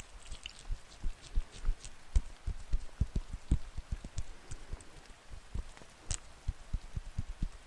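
Raindrops landing close to the microphone: irregular soft thuds, several a second, over a faint hiss, with an occasional sharp click.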